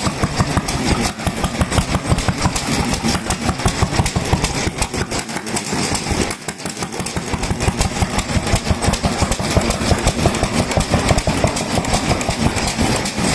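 Vintage Japanese stationary kerosene engines running, a rapid, steady chuffing of firing strokes.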